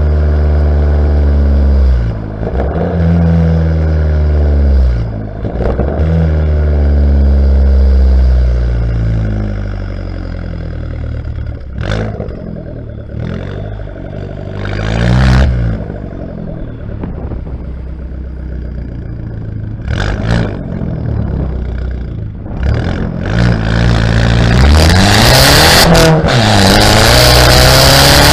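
Exhaust of a Fiat Bravo T-Jet's 1.4 turbocharged four-cylinder petrol engine as the car is driven, the note rising and then dropping in pitch several times, with a few sharp knocks in the middle. Near the end the engine pulls hard, the note climbing steadily under a rising rush of air noise.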